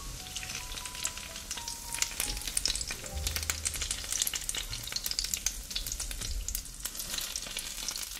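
Zucchini and tomato fritters shallow-frying in oil in a nonstick pan: a steady sizzle full of quick crackling pops, with silicone spatulas scraping the pan as the fritters are lifted out.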